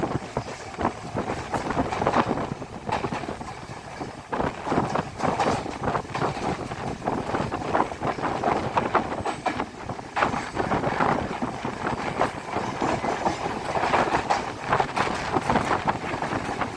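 Passenger train running along the track, its wheels knocking irregularly over the rails under a steady running noise.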